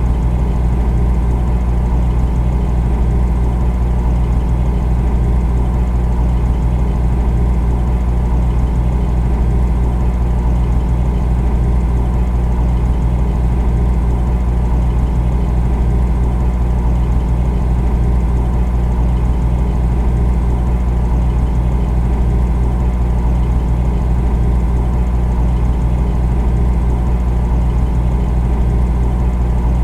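Refrigerator compressor running: a steady low hum with a fainter whir above it.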